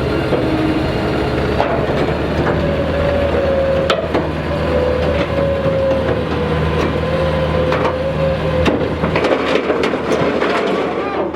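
Heavy truck engine running steadily under a whine that slowly drops in pitch, with repeated creaking, cracking and crunching, as of a load straining on wood.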